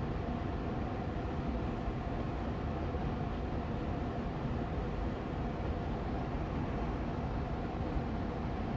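Air purifier fan running steadily on medium speed, a constant whooshing hum of moving air with a faint steady tone in it.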